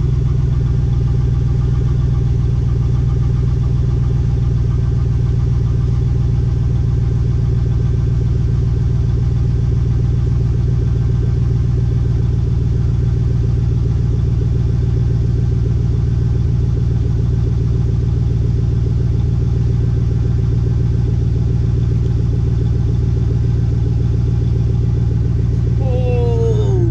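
Pickup truck engine idling steadily just after a cold start, still warming up; the exhaust is nice and loud.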